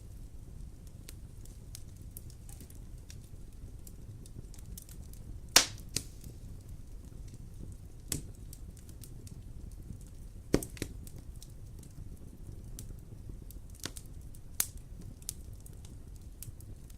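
Wood fire crackling in a fireplace: a steady low rumble with a scatter of small ticks and about half a dozen sharp pops, the loudest about five and a half seconds in.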